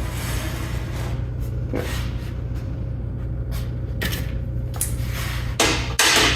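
Handling noises: several knocks and scrapes of equipment being shifted about on a work surface, the loudest just before the end, over a steady low hum.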